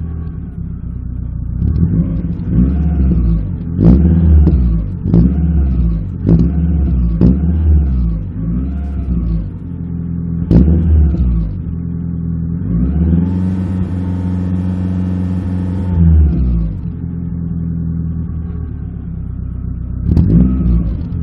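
Suzuki Swift GTi four-cylinder engine heard through its exhaust: idling, then revved in a string of quick throttle blips, then held at higher revs for about three seconds before dropping back to idle. More quick blips come near the end.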